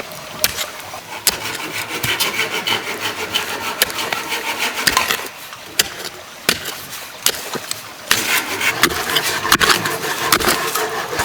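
Bamboo being cut and worked by hand: rasping, scraping strokes with a run of quick, even strokes a few seconds in, among scattered sharp knocks and cracks of wood.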